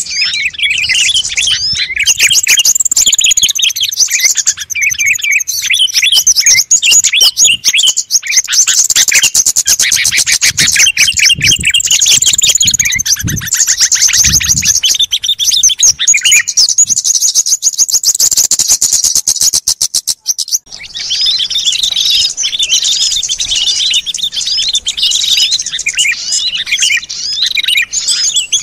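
Bird-lure recording of many small songbirds chirping and twittering at once in a dense chorus. From about 8 to 20 seconds in a fast buzzing trill runs through it; the sound drops out briefly just after 20 seconds, then the chirping picks up again.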